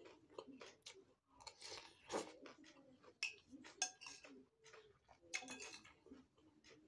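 Close chewing and crunching of rujak made from raw papaya stems and cucumber, in irregular bites, with a metal spoon clicking and scraping against the plate; a few sharp clinks ring briefly about three to four seconds in.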